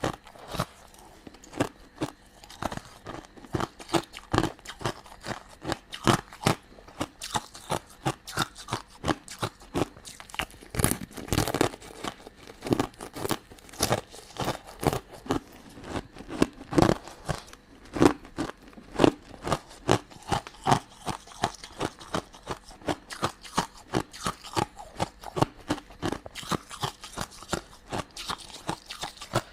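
Close-miked biting and chewing of crunchy sugar-coated sweets: a dense run of sharp crunches and clicks, several a second.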